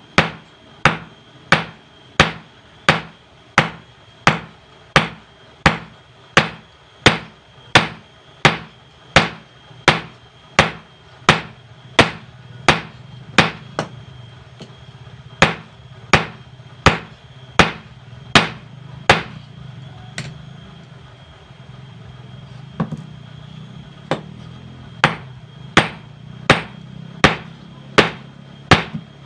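Hand hammer forging steel from an old bearing on an anvil: sharp metallic blows at about two a second, pausing for a few seconds in the latter half before resuming. A low steady hum sits under the blows in the second half.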